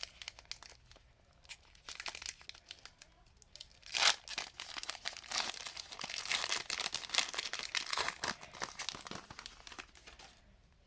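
A trading-card pack wrapper torn open with a sharp rip about four seconds in, followed by several seconds of crinkling and rustling as the wrapper is pulled apart.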